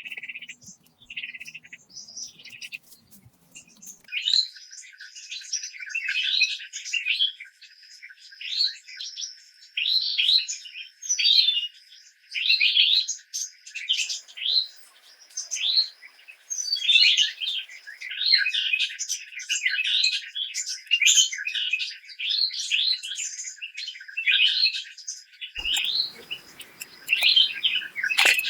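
Birds chirping in quick, repeated notes, one or two a second, over a thin steady high tone. A sharp click comes near the end.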